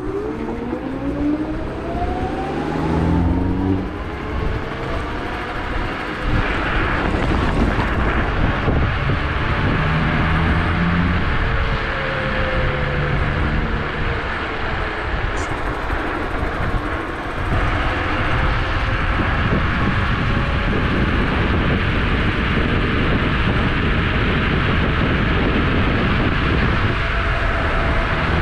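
Electric scooter hub motor whining as it accelerates, the whine rising in pitch over the first few seconds, followed by a steady rushing noise at speed.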